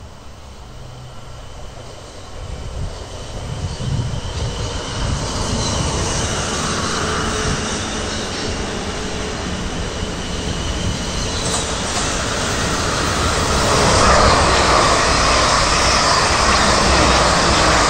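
A train approaching on the line: rail and wheel noise that grows steadily louder from about two seconds in and is loudest from about fourteen seconds in.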